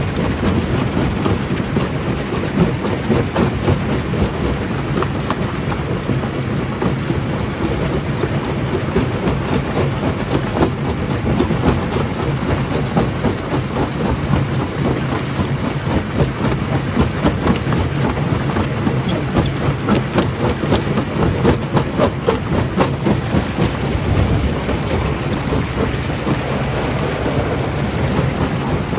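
Primary jaw crusher crushing rock: a continuous heavy rumble thick with the cracking and clattering of stones breaking in the jaws.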